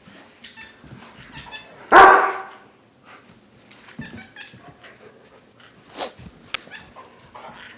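A dog giving one loud bark about two seconds in, followed by quieter scuffling sounds and a few sharp clicks.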